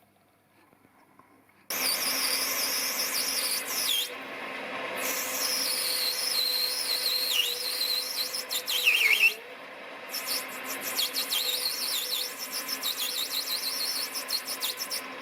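Lathe cutting brass bar stock, starting suddenly about two seconds in, with a high-pitched squeal that wavers in pitch over a steady hum and drops away briefly twice.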